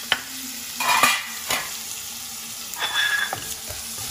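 Onion, garlic and tomato sizzling in hot oil in a non-stick wok. A spoon scrapes and clinks against the pan a few times, loudest about a second in.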